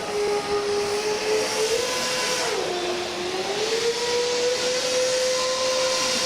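Small motor and propeller of a radio-controlled model whining over a steady hiss, its pitch rising, dipping sharply a little past two seconds in, then climbing back and holding as the throttle is worked.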